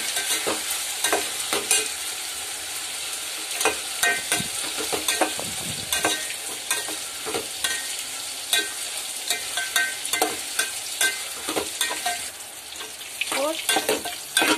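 Chopped tomatoes and onions sizzling in hot oil in a steel pot, stirred with a metal ladle that scrapes and clinks against the pot again and again. They are being fried down until they break into a mash.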